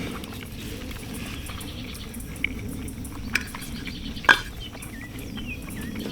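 A utensil clicking a few times against camp cookware while eating, three short clicks with the loudest about four seconds in, over a steady outdoor background with faint bird chirps near the end.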